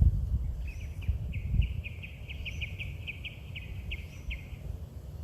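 A bird calling outdoors in a run of rapid, evenly repeated short notes, about five a second, lasting roughly four seconds. Underneath is a low rumbling noise, loudest in the first two seconds.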